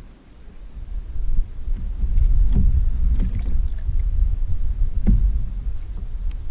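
Low rumbling noise with a few light knocks from a small jon boat on the water, cutting off suddenly at the end.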